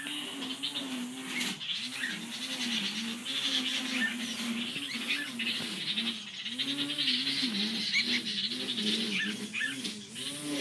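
Birds calling: a low call rising and falling over and over, about twice a second, with a few short high chirps over a steady high hiss.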